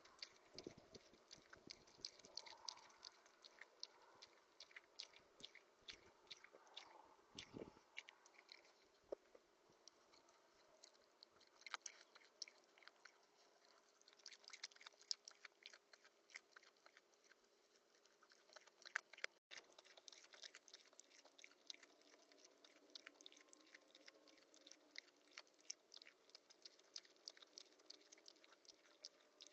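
A small cheek-pouched rodent chewing and cracking seeds: a fast, faint run of crisp little clicks and crunches that goes on with only brief let-ups.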